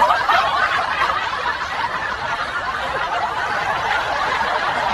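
Laughter: continuous wordless chuckling and snickering that follows a punchline and holds at a steady level.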